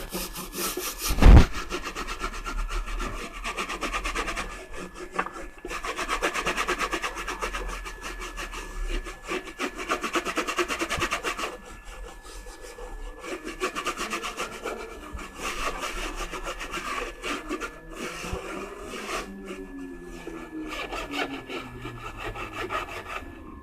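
Rapid back-and-forth scrubbing strokes on a plastic radio-cassette case, in bouts with short pauses, as a cleaning and restoring solution is worked over it.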